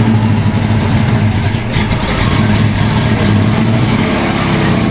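A vehicle engine idling steadily, with a few light clicks about two seconds in.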